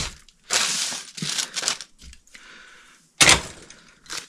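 Handling noise as an electrical box and its packaging are unpacked: rustling and crinkling in short bursts, then one sharp knock a little after three seconds in.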